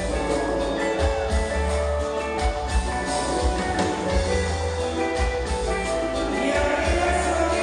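Cumbia band playing live: a steady pulsing bass beat with drums and melodic instrument lines.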